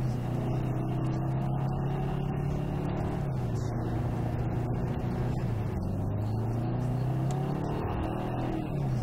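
Car engine running under way, heard from inside the cabin with road rumble beneath it. Its note dips and climbs back a few times, about a third of the way in, past the middle and again near the end.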